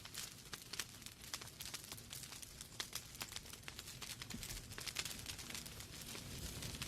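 Wood fire burning in a fireplace: logs crackling with many small irregular pops and snaps over a soft steady hiss.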